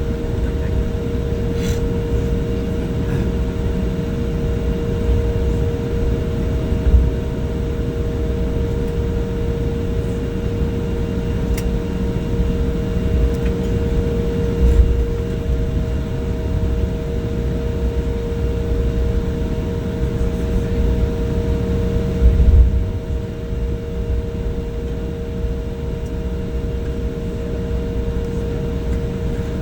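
Airliner's jet engines heard from inside the cabin during the takeoff roll: a steady engine whine in two tones over a heavy rumble, with a few jolts from the runway. The rumble eases slightly about 23 seconds in.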